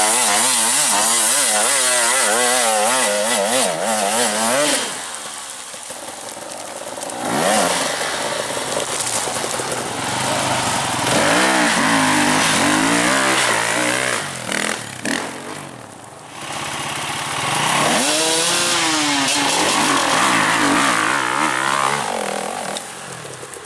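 Enduro dirt bike engine revving up and down in quick throttle blips, easing off for a few seconds about five seconds in and again briefly around sixteen seconds.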